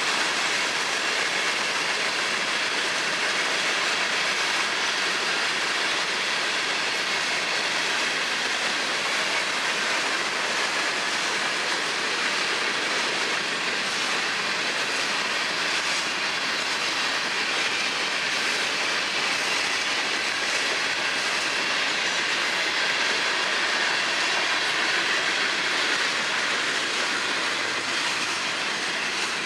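Cars of a long FEC freight train rolling past: a steady rush of wheel-on-rail noise with clickety-clack, beginning to fade near the end as the last car goes by.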